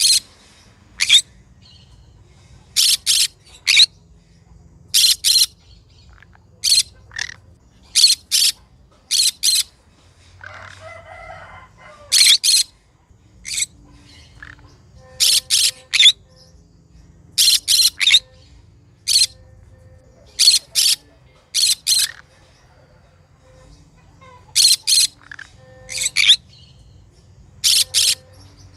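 Green conure giving short, shrill screeching calls in quick groups of two or three, repeated every second or two.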